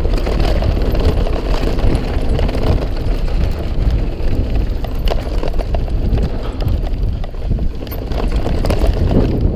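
YT Tues carbon downhill mountain bike rolling fast over a rough dirt trail: a constant low rumble of tyres and rushing air, with the bike rattling and scattered sharp clacks.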